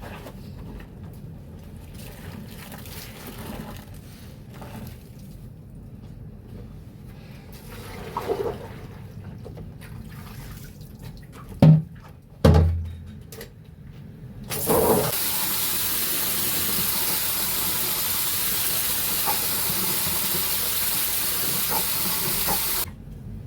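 Water running steadily into a container for about eight seconds, starting around the middle and cutting off suddenly near the end. Before it, quieter handling and splashing of wet laundry, with two loud thumps a little before halfway.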